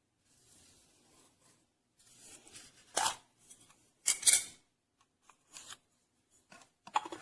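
Intermittent handling noises: short rustles, scrapes and clicks with quiet gaps between, the loudest about three and four seconds in.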